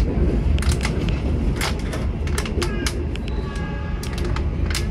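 Passenger train running slowly through a sharp curve: a steady low rumble of wheels on the rails with irregular clicks and knocks.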